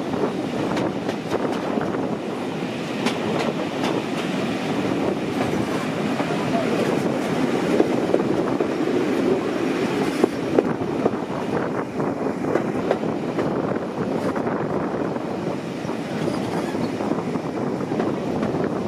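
Steam-hauled passenger train running along the track, heard from one of its carriages: a steady rumble of wheels on the rails with scattered clicks as the wheels pass over the rail joints.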